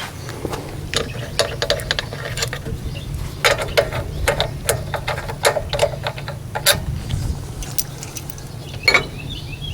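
Irregular metallic clicks and clinks of engine parts and hand tools being handled, over a low steady hum.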